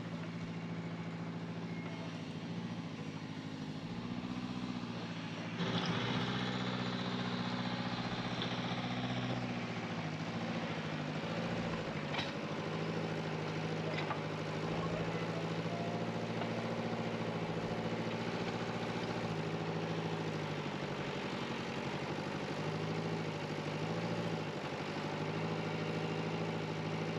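Backhoe excavator's diesel engine running steadily, its pitch shifting a little as it works. About five seconds in it gets louder and harsher for about four seconds before settling back.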